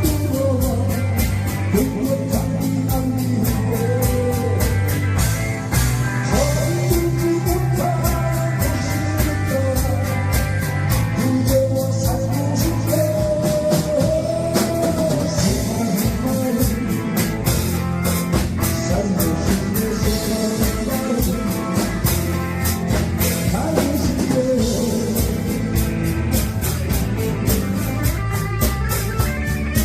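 Live pop-rock song: a drum kit keeps a steady beat under a sung melody.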